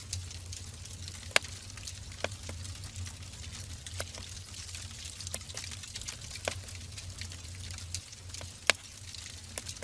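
Wood fire burning in a fireplace: a steady hiss with sharp crackles and pops scattered irregularly through it, the loudest about a second and a half in and near the end.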